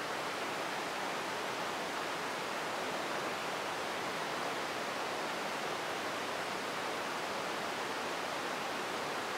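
Heavy rain pouring down, a steady, even hiss of drops hitting the ground.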